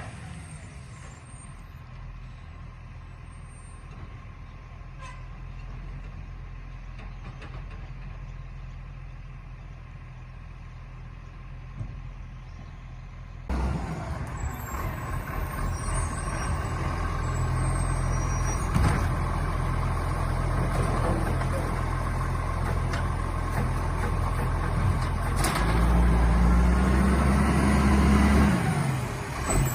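Garbage truck engine running: a quieter, steady hum at first, then, after a sudden cut about halfway in, a louder running engine. Near the end the engine revs up for about three seconds and then drops back.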